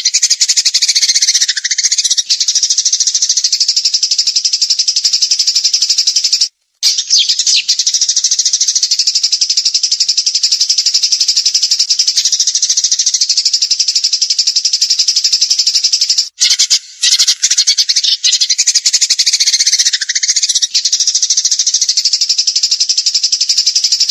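Songbird singing a 'tembakan', a high, very rapid trill of fast-repeated notes, running almost unbroken and stopping briefly twice, about 7 and 16 seconds in.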